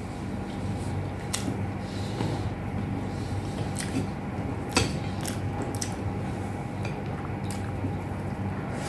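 Chewing and mouth sounds of someone eating rice and beef with eggplant by hand, with several sharp clicks scattered through. A steady low hum runs beneath.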